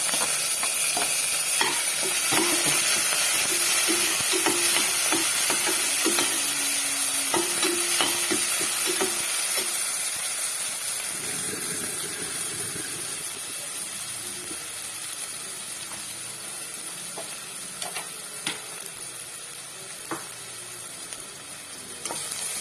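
Chopped onions frying in hot oil in a kadai, a steady sizzle with a spoon stirring through them. The sizzle slowly dies down as the onions soften, and there are a few sharp taps of the spoon against the pan near the end.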